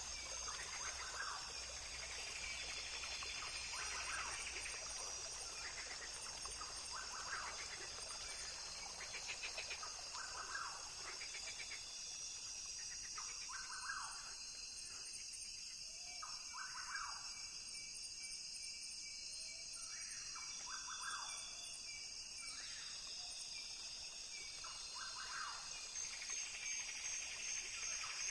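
Rainforest ambience: a steady high insect chorus with short animal calls repeating every couple of seconds.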